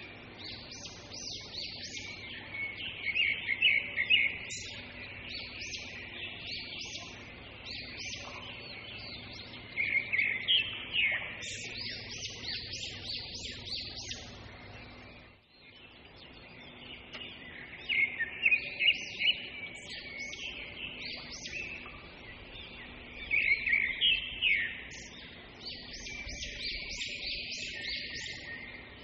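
Small birds chirping in quick clusters of short, high calls, over a faint steady background hum.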